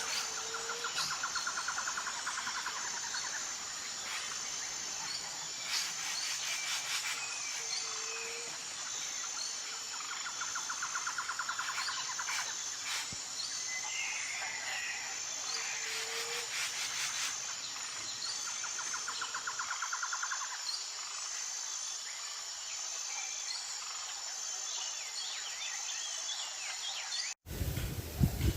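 Forest birds calling over a steady, pulsing high insect chorus. A buzzy trill repeats about every five to six seconds, with a short low note between, and scattered chirps. Near the end the sound cuts off abruptly and a louder, rushing, low sound begins.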